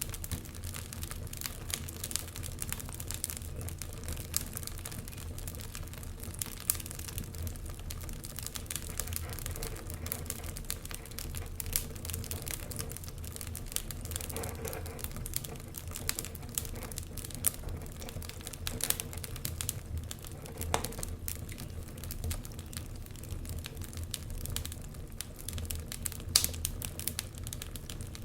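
Fire crackling with frequent small pops and snaps over a low steady rumble, with one louder snap near the end.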